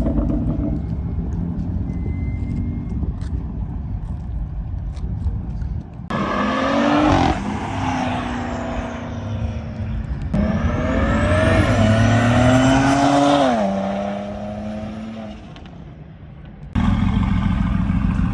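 A car engine accelerating hard twice, its pitch climbing and then dropping, over a low steady rumble of engine noise. The second run fades away before the low rumble returns.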